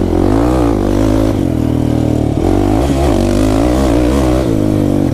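Kawasaki KFX 450R quad's single-cylinder four-stroke engine revving while riding, its pitch rising and falling several times.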